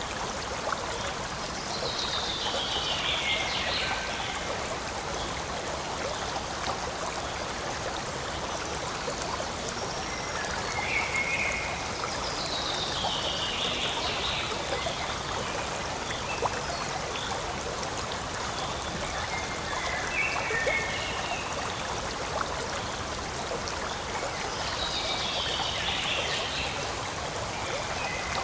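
Forest stream flowing with a steady rushing trickle. A high falling call sounds over it three times, with a few shorter calls in between.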